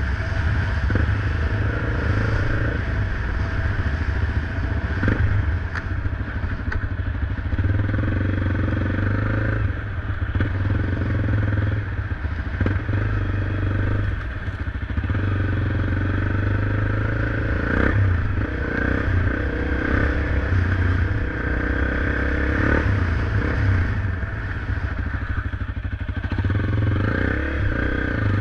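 Small motorcycle engine running as it is ridden along, with scattered clatter and knocks.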